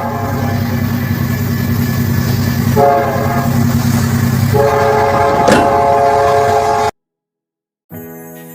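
Train horn sounding its multi-note chord: a blast that ends right at the start, a short blast about three seconds in, and a long blast from about four and a half seconds, over the low steady rumble of the passing train. Everything cuts off suddenly about seven seconds in, and music starts near the end.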